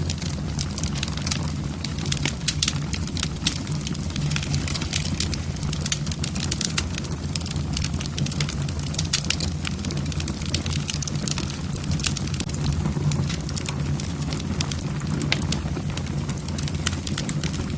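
Wood fire burning in a fireplace: logs crackling and popping in many sharp, irregular snaps over a steady low rumble of the flames.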